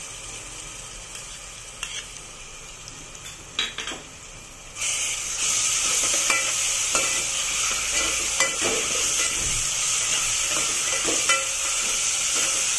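Sliced onions and ginger-garlic paste sizzling in hot oil in an aluminium pot while a metal spoon stirs, scraping and knocking against the pot. The sizzle gets suddenly much louder about five seconds in, once the paste is stirred through the oil.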